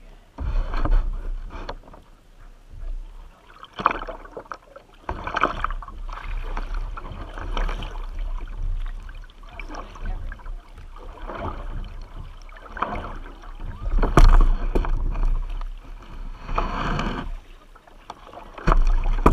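Kayak paddle strokes splashing in river water, coming irregularly every second or two, over a low rumble on the microphone.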